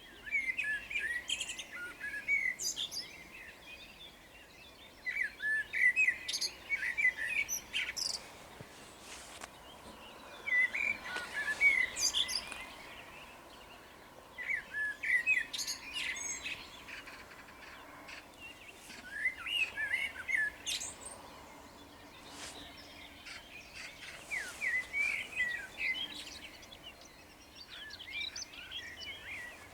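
Songbird singing, about seven short phrases of two to three seconds each, repeated every four to five seconds in the dawn chorus.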